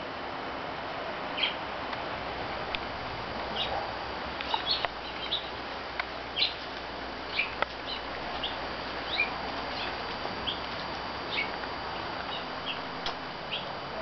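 Small birds chirping: many short, high chirps, about one or two a second, over a steady background hiss.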